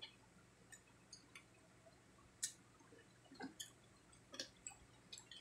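Faint eating sounds of crispy fried pork cheek being chewed and picked apart by hand: scattered small crackles and mouth clicks, the sharpest about two and a half seconds in.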